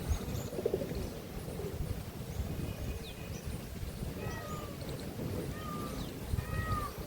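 Small birds chirping with short arched calls, repeating several times in the second half, over a steady low rumbling noise.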